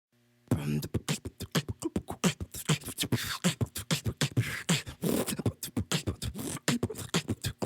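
Human beatbox: a steady rhythm of mouth-made kick drum thumps, snare pops and hi-hat clicks, starting about half a second in.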